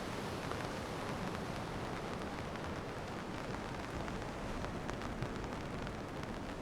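Steady rainfall hiss with scattered raindrop ticks.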